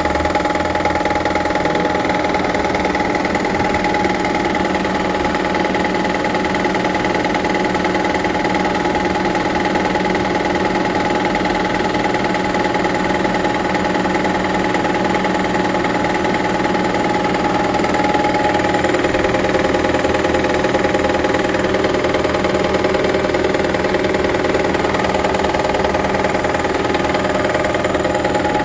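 Toyota Prius Gen 2's 1.5-litre four-cylinder engine running steadily, with several steady tones held over it and a slight rise in level about two-thirds of the way in. The noise appeared after an engine swap, and its cause is unknown to the owner.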